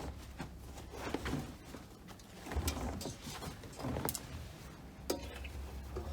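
Miele Professional PW6065 Plus washing machine drum turning, with wet laundry tumbling and dropping in soft, irregular thuds and swishes over a low motor rumble.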